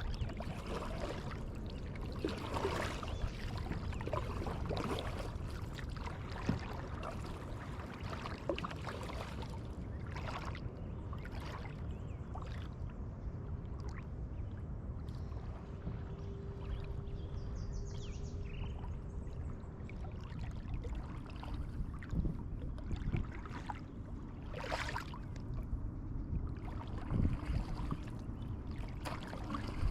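Kayak paddle strokes dipping into the water at irregular intervals, with water splashing and trickling off the blades and the hull.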